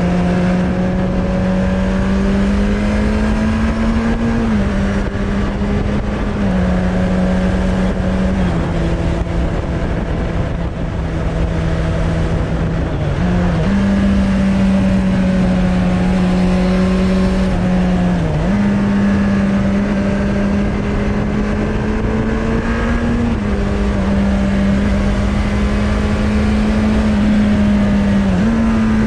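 Suzuki Bandit 600's inline-four engine running through a Hashiru aftermarket exhaust at steady riding revs. Its pitch creeps up and steps up or down several times as the throttle and gears change, over a constant rush of wind noise.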